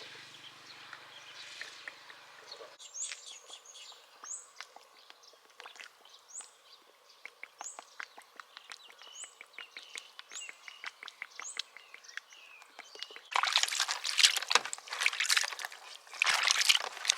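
Outdoor ambience with a bird repeating a short, high, falling call about once a second over many faint small clicks. A few seconds before the end, a much louder crackling rustle takes over.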